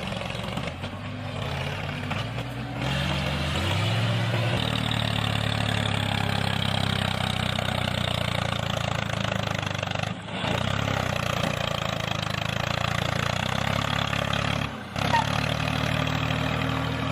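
Engine of a DIY mini tractor running, its pitch stepping up over the first few seconds and then holding steady, with two brief dips.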